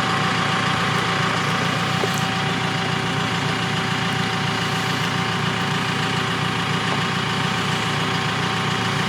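Diesel engine of a JCB telehandler running steadily at low revs while it holds and lowers a load.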